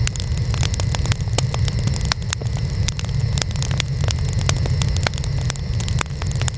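Burning wood fire crackling: a steady low rumble of flames with many sharp crackles and pops, several a second.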